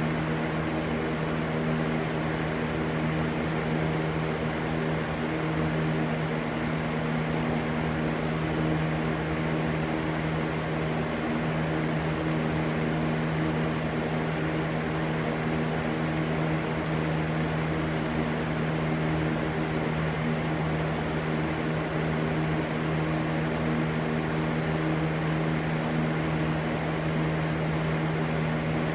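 Electric fan running steadily: an even rush of air over a constant low motor hum, unchanging throughout.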